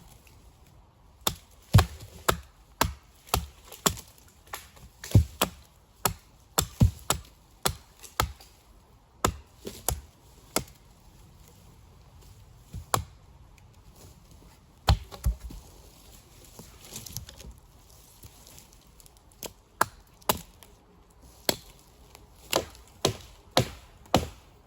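Wood being chopped: a long run of sharp, uneven blows into timber, mostly one or two a second, thinning to a few scattered strikes in the middle before picking up again.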